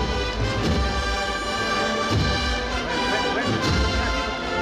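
Processional brass band playing a lively march, with sustained brass chords over deep drum beats.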